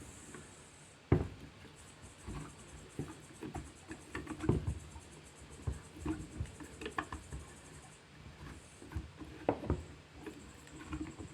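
Irregular clicks and knocks of a C-clamp being worked on a brake caliper, pressing the piston back into its bore bit by bit. The sharpest knock comes about a second in.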